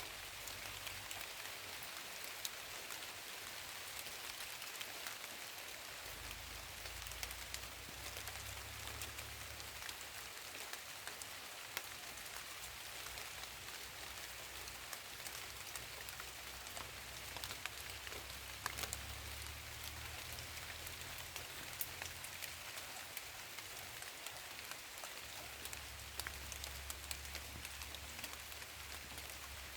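Steady rain falling: an even hiss with many individual drops ticking through it. A low rumble comes and goes underneath, a few seconds at a time.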